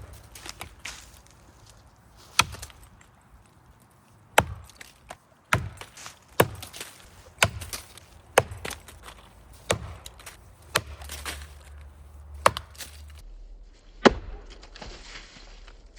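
Axe chopping into a maple trunk, cutting a wide undercut for felling: about a dozen sharp blows, roughly one every second or so.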